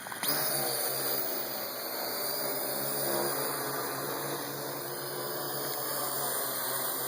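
Parrot AR.Drone 2.0 quadcopter's electric rotors jumping to take-off speed about a quarter second in, then running steadily as it climbs to hover.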